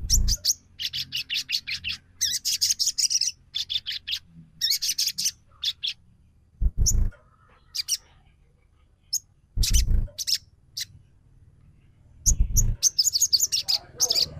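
A sogon sunbird giving its rapid 'trotol' call: bursts of fast, high chips, several in a row with short pauses between. This is a lure call used to provoke caged birds into singing. Three dull low thumps fall in the pauses, about 7, 10 and 12 seconds in.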